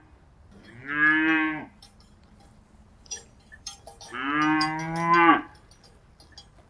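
Calf mooing, two calls: a short one about a second in and a longer one near the middle.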